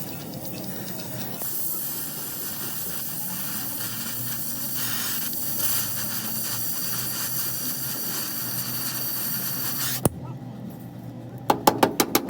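Steady hiss of compressed air from an air tool, starting about a second in and cutting off with a sharp click near the ten-second mark. Near the end comes a quick run of about eight sharp knocks.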